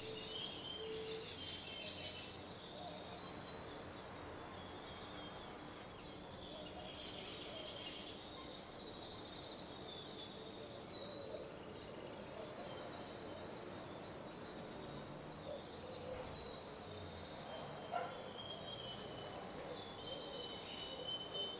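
Birds chirping and calling, many short high notes scattered throughout over a steady high trill and a low outdoor hiss.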